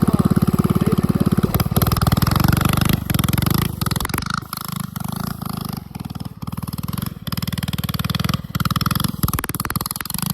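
Mini bike's small engine running and being revved, loudest in the first few seconds, then its level rising and falling.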